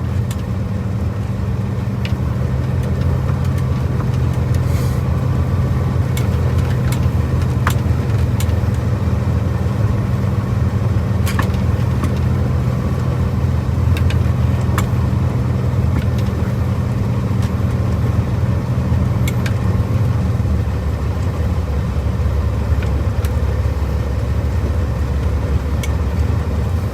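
Caterpillar C15 Acert diesel of a Peterbilt 379 running under way, heard from inside the cab as a steady low drone. About 21 seconds in the drone's pitch pattern changes and turns rougher, with a few faint clicks scattered through.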